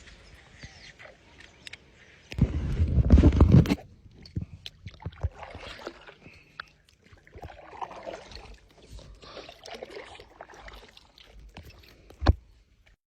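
Handling noise and water sounds aboard a kayak: light knocks and scrapes of gear on the hull and soft sloshing. A loud burst of deep rumbling noise comes about two seconds in and lasts a second and a half, and a sharp knock comes near the end.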